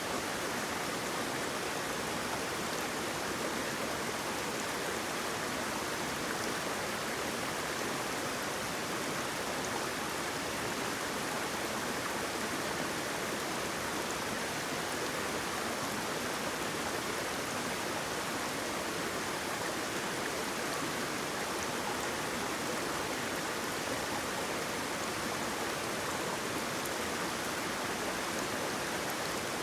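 Water rushing over a waterfall, a steady, unbroken hiss.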